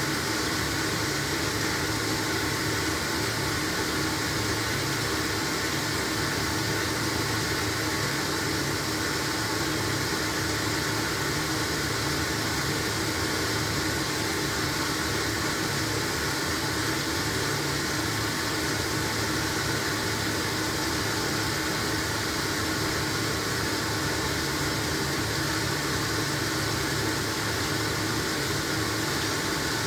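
LG washing machine running mid-cycle with a blanket load: a steady hum with a constant hiss over it, unchanging throughout.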